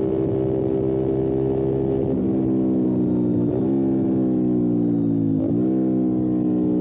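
Motorcycle engine running under way. Its note holds steady, then dips sharply and picks up again three times.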